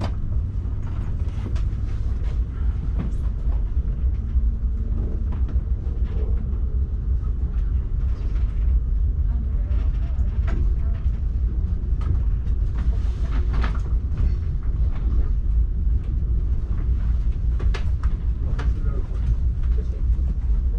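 ÖBB Railjet passenger train running on the rails: a steady low rumble with scattered clicks and knocks from the wheels.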